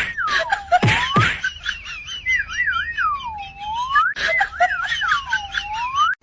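Whistling that swoops down from high pitch and back up in smooth dips about a second long, with quicker warbling wiggles between them and a few clicks. It cuts off suddenly near the end.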